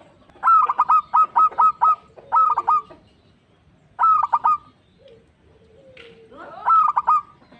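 Zebra dove (perkutut) singing: four quick phrases of rapid cooing notes, each a short run of clipped coos, spaced a second or two apart.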